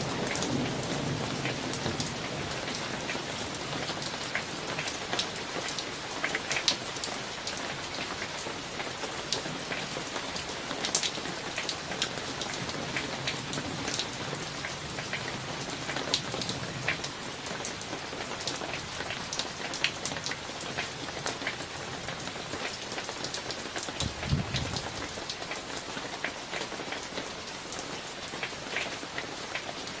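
Steady summer thunderstorm rain, with many individual drops ticking sharply on a hard surface. The tail of a thunder rumble dies away in the first second or two, and a brief low rumble comes about 24 seconds in.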